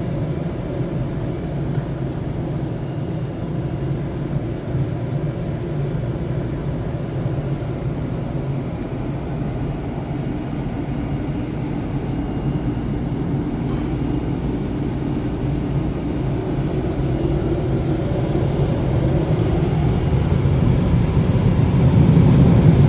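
Automatic car wash air-dryer blowers blowing air over the car in the drying cycle, heard from inside the car as a steady rushing noise that grows louder near the end as the blowers come closer.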